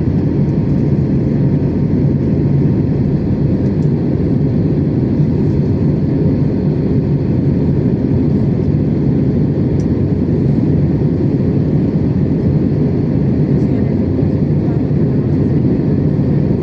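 Steady cabin noise inside an Airbus A321neo in flight: the deep, even rumble of its Pratt & Whitney geared turbofan engines and the airflow past the fuselage, with a few faint steady hums over it.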